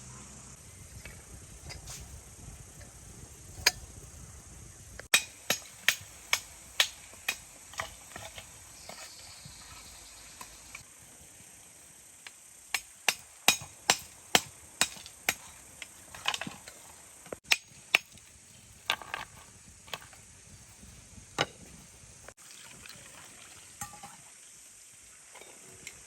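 A run of sharp knocks, two to three a second, in two bursts with a pause between and a few scattered ones near the end, over a steady faint hiss.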